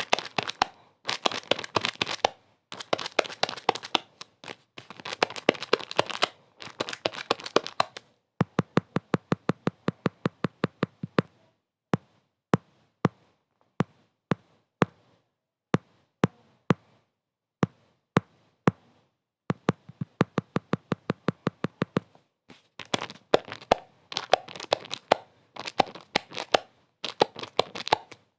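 Dry crackling and crinkling in bursts about a second long, with short gaps between them. In the middle this thins to runs of separate sharp clicks, fast at first and then a few a second. Near the end the dense bursts return.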